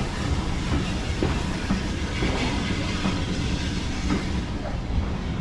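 Heritage railway train at the station platform: a steady low mechanical noise with a few light knocks.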